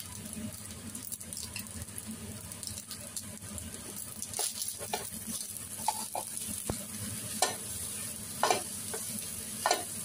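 Fried rice with shrimp, egg and green onion sizzling in butter while a spatula stirs and tosses it in the pan. Scrapes and knocks of the spatula on the pan come more often in the second half.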